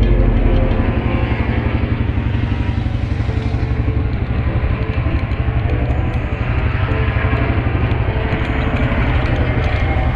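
A motorcycle engine running steadily, with a fast, even low pulse.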